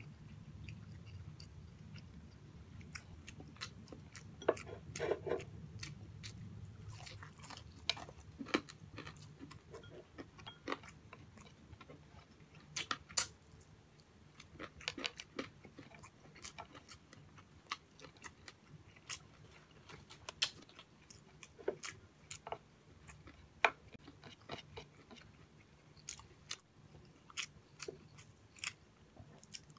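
A man chewing a mouthful of fried pork chop and rice eaten by hand, close to the microphone: wet chewing with irregular crisp crunches and sharp mouth clicks, a few of them louder.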